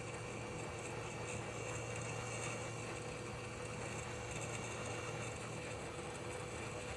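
Hot air rework station blowing steadily during reflow of a phone motherboard: an even hiss with a low hum and a faint steady tone.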